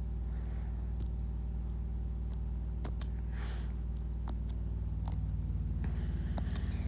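A steady low hum, with a few light, brief taps scattered through it.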